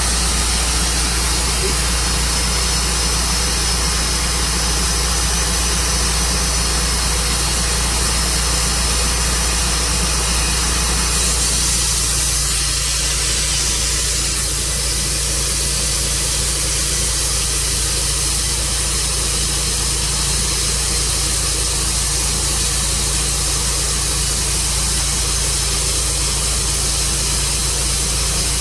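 Tru Cut sawmill running steadily with a constant low engine drone and a high hiss that brightens a little about twelve seconds in.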